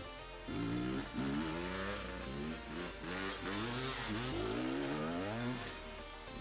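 Enduro motorcycle engine revving in quick repeated bursts, its pitch climbing sharply with each blip of the throttle, over background music.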